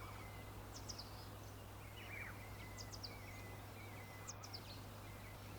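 Faint birdsong from a nature-sounds bed: small birds give quick, high, falling chirps in groups of about three, repeating every second or two, with softer calls lower down, over a steady low hum and hiss.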